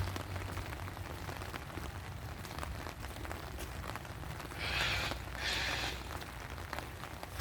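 Rain falling, a steady patter of drops with scattered individual ticks. About five seconds in there are two short, louder hissing sounds.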